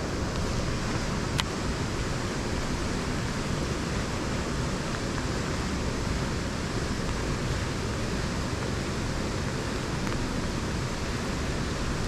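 Steady hiss of wind and rain, an even noise with no rise or fall, with a single sharp click about a second and a half in.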